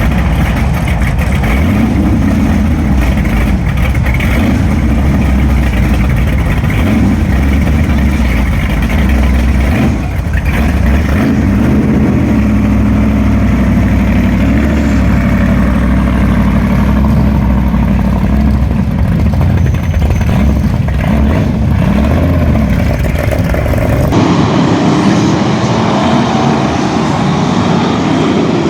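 V8 stock car engines running hard on an oval track, their pitch rising and falling as the cars go round. The sound changes abruptly about 24 seconds in, with less low rumble after that.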